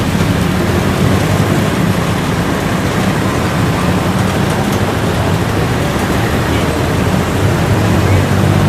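A steady, loud rumbling noise with a hiss over it, without distinct strikes or tones.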